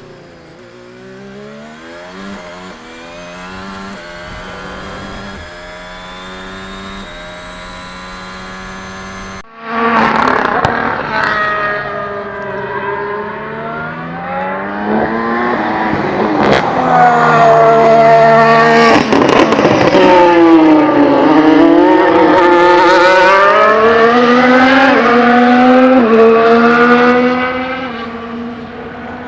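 Red Bull Formula 1 cars' 1.6-litre V6 turbo-hybrid engines at speed, the pitch climbing through the revs and stepping down at gear changes. About a third of the way in a cut leads to a much louder clip of a car accelerating and braking repeatedly.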